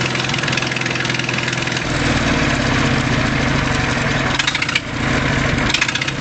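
Volvo T31 tractor engine running steadily; about two seconds in its note turns louder and deeper.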